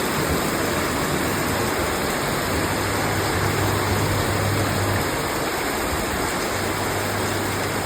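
Steady heavy rain, an even hiss, with a low hum that comes and goes.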